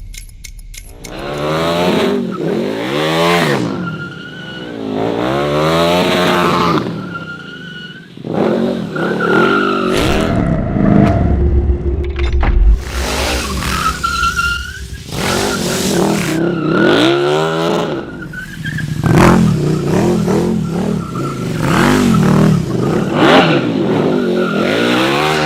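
KTM motorcycle engine revving up and down over and over, with short tyre squeals between the revs, as the bike drifts.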